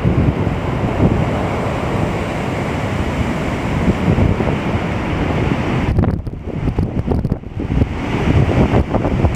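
Strong storm wind gusting hard against the microphone, a loud, low rumbling buffet that eases for a moment about six seconds in and then builds again.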